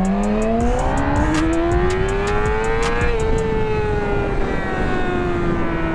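Motorcycle engine accelerating, its pitch climbing steadily for about three seconds, then falling slowly as the throttle eases off. A rapid ticking fades out in the first second and a half.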